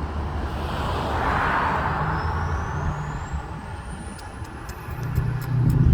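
Road traffic: a steady low engine hum, a vehicle passing about a second in, then a heavier vehicle's engine getting louder near the end, with a faint rising whine over the top.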